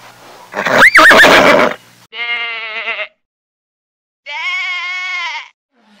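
A horse's loud, breathy whinny with a squealing flick of pitch about a second in. After that, a goat bleats twice, each wavering bleat lasting about a second, with a silent gap between them.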